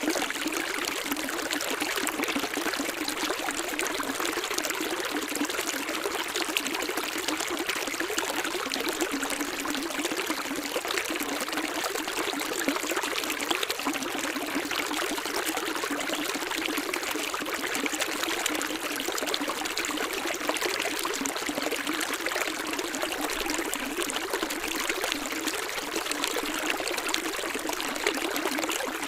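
Steady running water, a stream trickling without let-up.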